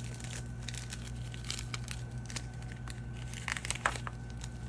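Soft crinkling and rustling, with a few small clicks, as synthetic fly-tying wing material is handled, a little louder near the end, over a steady low electrical hum.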